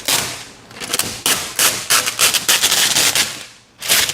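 Old window tint film being peeled off car door glass, its adhesive letting go in rapid crackling pops. The crackling breaks off briefly near the end, then starts again.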